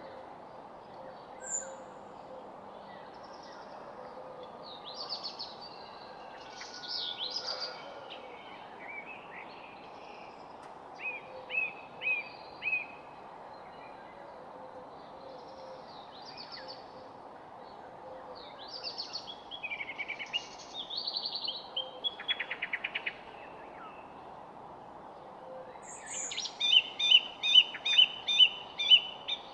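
Several wild birds chirping and singing, with short calls and trills overlapping, over a steady low background rush of outdoor noise. Near the end one bird repeats a loud call about three times a second.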